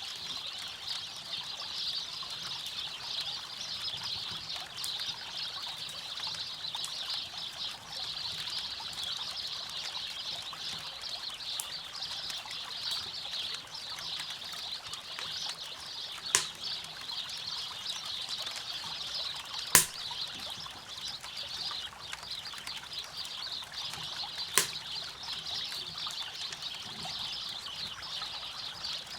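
Steady rush of river water running over rocks, with occasional sharp pops of wood burning in a campfire; three loud pops come in the second half.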